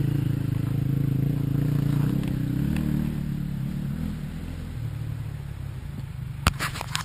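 Dirt bike engine running at idle, a little louder over the first three seconds, then settling lower. A sharp click comes near the end.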